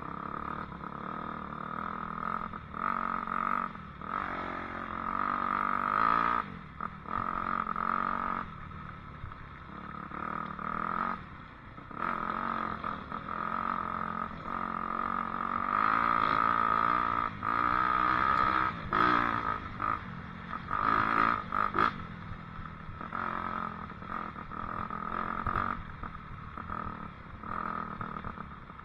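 Dirt bike engine revving up and down as it is ridden, its pitch rising and falling with the throttle and dipping briefly between pulls.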